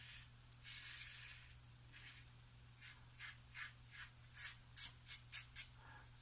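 Double-edge safety razor scraping through lathered stubble, faint: a longer stroke about half a second in, then a quick run of about ten short strokes, roughly four a second, in the second half.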